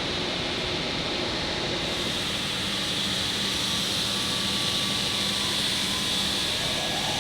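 Steady industrial machine noise with a strong hiss and a low hum; a tone rises in pitch near the end.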